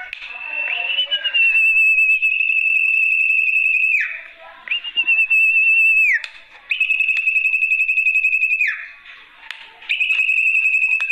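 Sertu (zepo) bird lure call: a series of long, steady, finely trilled whistles, each about two seconds long and ending in a quick falling drop, repeated about four times with short breaks.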